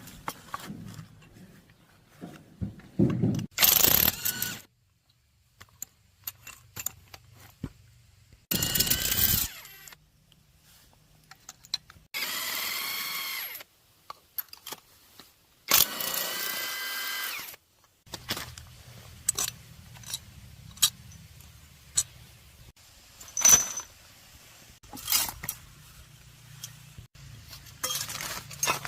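Workshop work: a small electric power tool runs twice for about two seconds each at a steady whine, among short bursts of hiss and scattered clicks and clinks of parts being handled.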